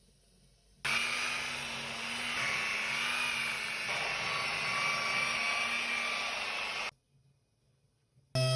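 A small electric power tool or blower motor running steadily for about six seconds, starting and stopping abruptly.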